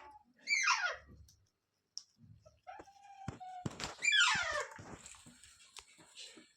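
Green ringneck parrot giving two harsh squawks, each sweeping steeply down in pitch, one about half a second in and a longer one about four seconds in, with a few light knocks between them.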